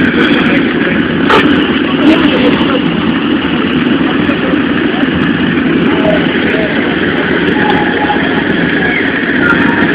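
Dirt bike engines running steadily, with no clear revving.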